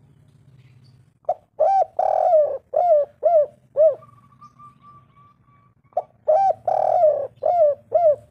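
Spotted dove cooing: two phrases a few seconds apart, each a run of short, deep coos with one longer, drawn-out note among them.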